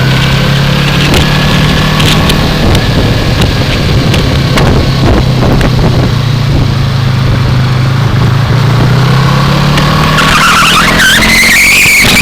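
2015 Yamaha R3's parallel-twin engine running steadily under way, heard from a helmet camera; its note sags slightly mid-way and rises in pitch over the last couple of seconds as it speeds up.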